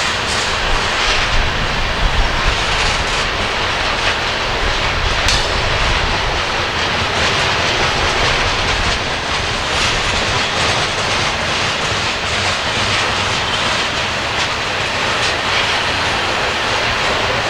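Coal train's cars rolling past in a steady rumble, with faint wheel clicks over the rail.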